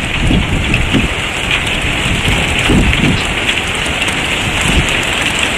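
Heavy rain pelting down, loud and steady, with gusty low rumbling from wind on the microphone.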